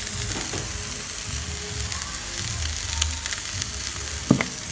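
Onion and sweet pepper sizzling steadily as they sauté in hot oil in a frying pan, with a single sharp knock near the end.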